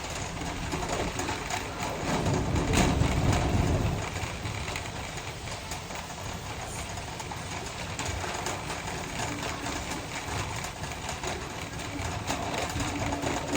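Shopping cart rolling over a store floor, its wheels and wire basket rattling up close to a phone mounted on the cart. The rumble gets louder about two seconds in and eases off again around four seconds.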